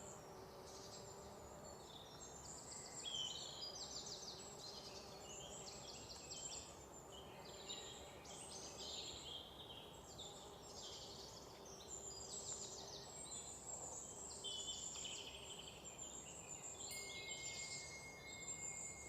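Faint chorus of several small birds chirping and singing, with many overlapping short calls and quick trills at different pitches.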